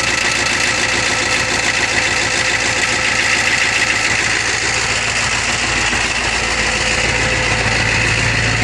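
Ford 6.9-litre IDI V8 diesel idling steadily just after a cold start, the engine still cold.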